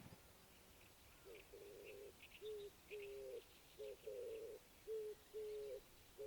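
A dove cooing in a repeating low phrase of short and longer notes, beginning just over a second in. Faint chirps of a small bird sound behind it.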